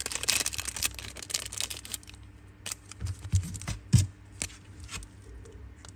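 Two Zippo lighter cases being handled: a stretch of rustling and clicking, then a few separate clicks and taps, the sharpest about four seconds in.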